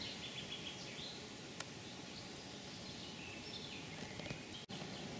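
Outdoor ambience with a steady background hiss and faint high bird chirps, which come again about four seconds in.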